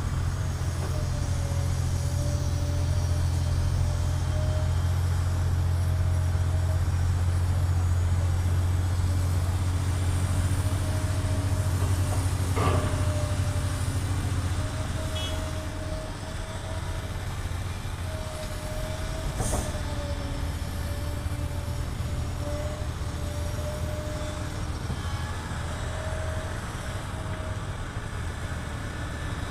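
Diesel engine of a SANY long-boom excavator running, with a deep steady hum that eases off about halfway through. A higher whine comes and goes over it, and there are a couple of sharp clicks.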